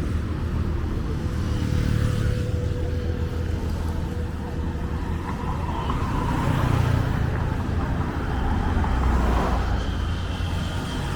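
Roadside traffic: a steady low rumble of engines and tyres that swells several times as vehicles pass close by.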